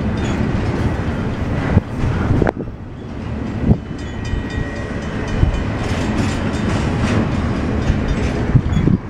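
Double-stack container well cars rolling past: a steady rumble of steel wheels on rail, broken by a few sharp clanks from the wheels and car couplings.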